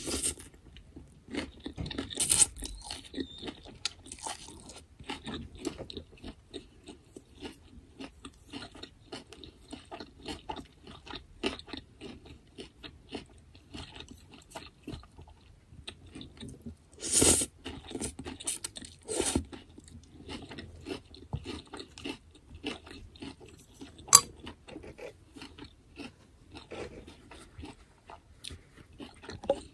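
Close-miked chewing and crunching of food, a steady run of wet, crackly mouth sounds with a few louder crunchy bites scattered through.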